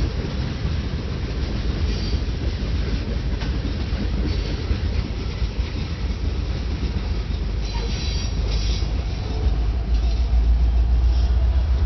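Freight train rolling past: a steady rumble of rail cars on the track, with a brief high-pitched wheel squeal about eight seconds in and the rumble getting louder near the end.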